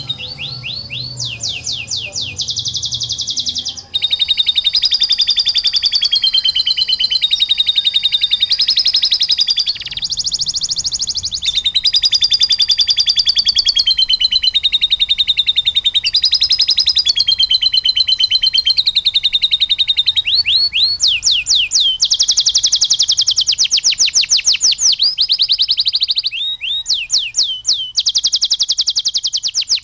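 Domestic canary singing a long, continuous song of fast trills and rolls: rapid strings of repeated high notes that change phrase every couple of seconds. The song is filled in with lovebird-like phrases.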